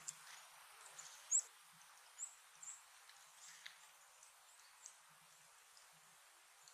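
Small songbirds giving short, high chip calls, about a dozen scattered through, some sweeping quickly downward, over a faint steady outdoor hiss.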